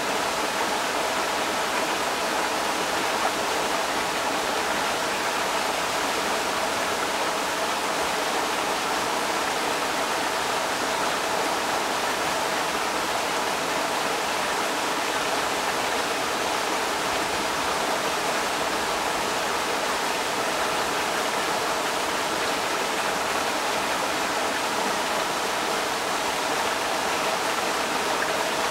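Creek water rushing steadily over rocks, a constant even splashing hiss.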